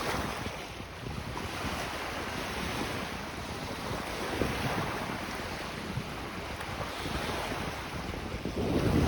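Lake waves washing onto the shore, with wind buffeting the microphone in a low rumble that grows stronger near the end.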